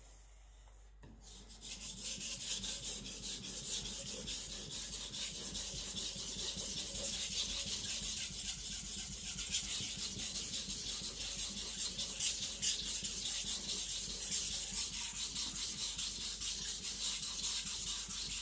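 Carbon-steel gyuto blade scraping back and forth on a coarse 400-grit waterstone in quick, steady strokes, starting about a second in. It is thinning work, lowering the bevel angle on the coarse stone.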